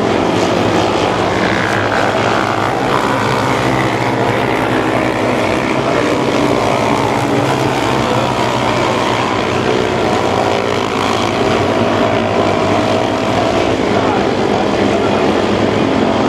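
Mini sprint race cars' engines running at speed on a dirt oval: several engines together, their pitch rising and falling as the cars accelerate and pass.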